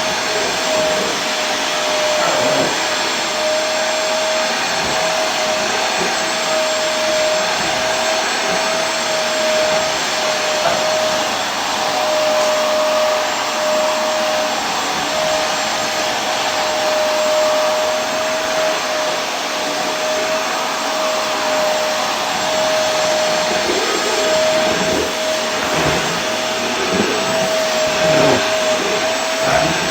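Vacuum cleaner running steadily: a constant hiss of rushing air with a steady motor whine, no change in speed.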